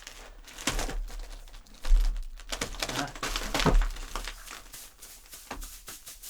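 Foley crunching and crinkling worked by hand: a run of irregular crunches and rustles, loudest about two seconds in and again around three to four seconds in, tailing off near the end.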